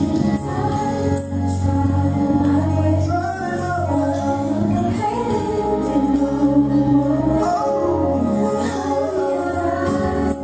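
Gospel choir singing with instrumental accompaniment and a tambourine jingling along.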